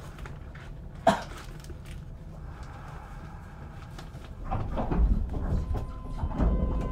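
Inside a Kintetsu 5200-series electric train car: the doors shut with one sharp thud about a second in. From about four and a half seconds the car begins to pull away, with low rumbling and a few clunks.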